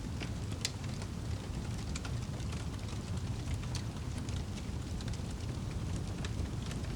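Wood fire burning in a fireplace: a steady low rumble with sparse, sharp crackles and pops, a handful over the few seconds.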